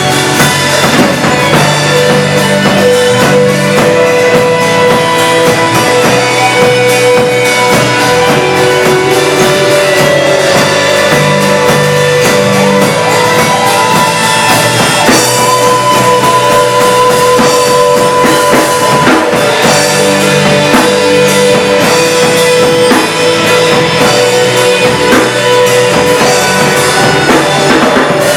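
Live worship band playing a rock-style song with drum kit and guitar.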